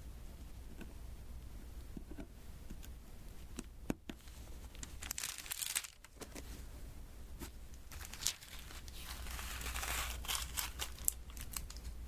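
Sticky crackling and peeling from the glue-coated surface of a diamond-painting canvas being handled, with scattered small taps and clicks. A longer stretch of crackling starts about nine seconds in.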